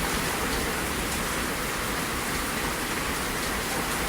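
Heavy thunderstorm rain pouring down, a steady, loud rushing hiss with no breaks.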